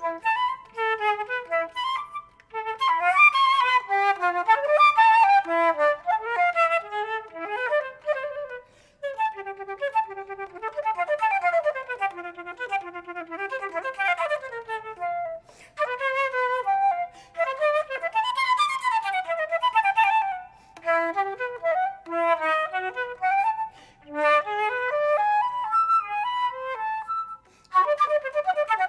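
A flute playing alone: quick runs of notes in phrases, broken every few seconds by short pauses for breath.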